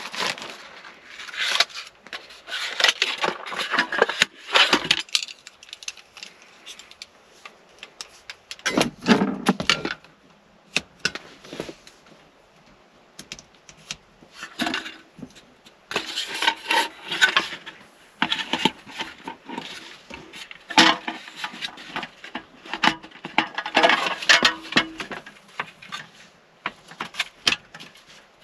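Small household items being handled in a cramped space: clinks, knocks and rustling that come and go, with a quieter stretch midway.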